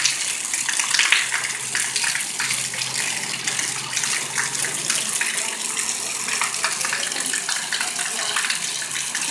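Heavy rain pouring down: a dense, steady splashing hiss of drops and running water.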